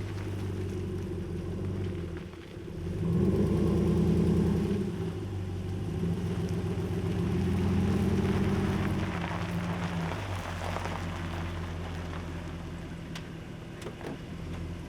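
Truck engine running under way, revving up about three seconds in and again a few seconds later, then easing off and dropping away near the end.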